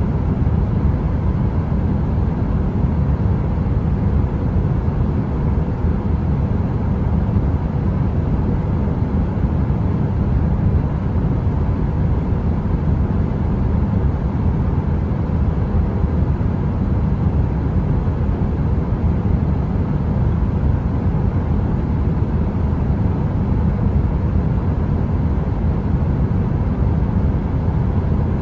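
Heater running: a steady, deep rushing noise, heaviest in the low end, with a faint steady hum and no crackle.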